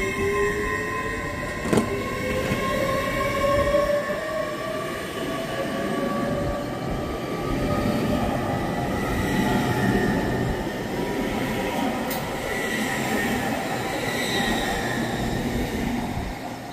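A train moving along the platform, its rumble carrying a whine whose pitch rises slowly over the first several seconds, with a sharp click about two seconds in and another near the end.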